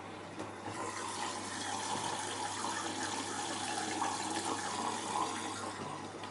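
LG F10A8HDS5 washing machine taking in water, a steady rush of water into the drum that swells about a second in and eases off near the end, with a faint steady hum underneath.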